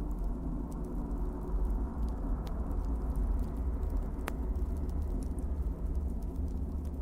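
Wood fire burning in a fireplace: a steady low rumble with scattered small crackles and one sharper pop a little after four seconds in.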